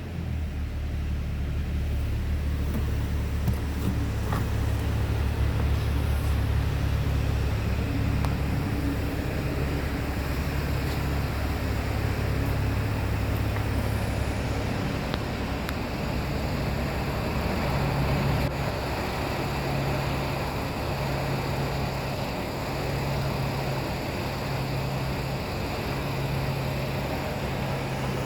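2005 Chevy Colorado's 3.5-litre inline-five engine running steadily. About halfway through, its deep hum eases and the note turns more uneven.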